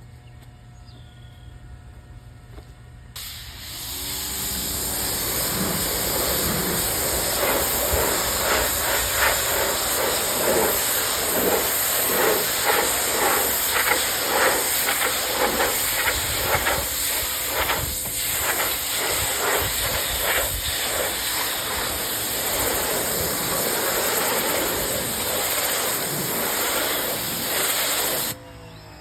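Electric pressure washer jet spraying onto vinyl siding to rinse off a bleach cleaner: a loud, steady hiss that starts suddenly about three seconds in and cuts off near the end, with uneven pulses through it.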